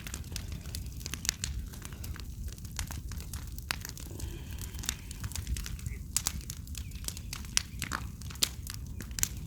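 Large bonfire of yard scrap burning hard, with frequent sharp irregular crackles and pops over a steady low rumble.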